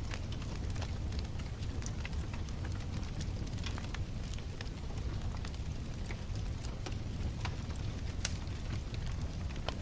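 Wood bonfire burning: frequent sharp crackles over a steady low rumble.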